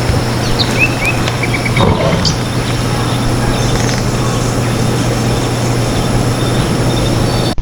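Small birds chirping a few times, including a quick run of about five repeated notes, over a loud, steady outdoor hiss with a low hum underneath.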